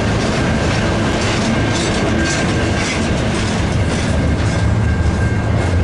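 Freight train of double-stack container well cars rolling past close by: a loud, steady rumble of steel wheels on the rails, with a faint high steady whine.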